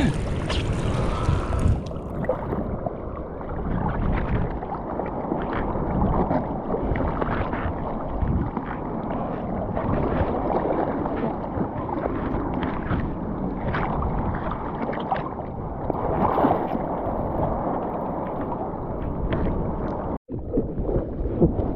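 Muffled sloshing and splashing of seawater around the camera as people swim in the surf, a steady churning wash. It cuts out for an instant near the end.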